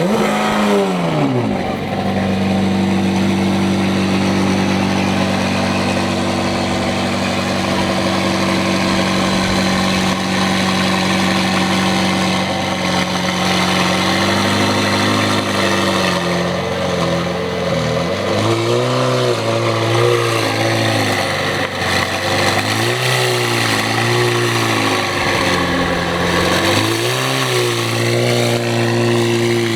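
A motor vehicle engine starts with a flare in revs, then settles to a steady idle. From about halfway on it is revved several times, each rev rising and falling back to idle.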